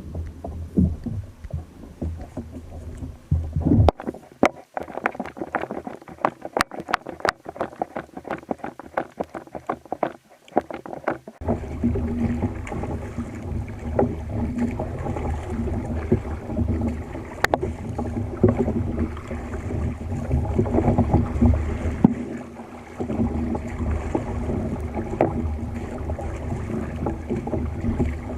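Kayak on the sea: water sloshing and knocking against the hull. A dense run of clicks and knocks from about four to eleven seconds in gives way to a steady low rumble of water noise with scattered clicks.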